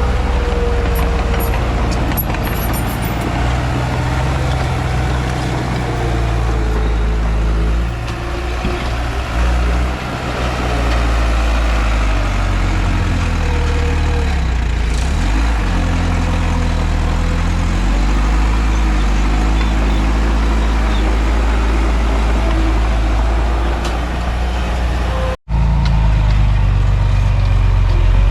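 Komatsu D31P bulldozer's diesel engine running steadily, its pitch rising and falling as the load changes. The sound cuts out for an instant about 25 seconds in.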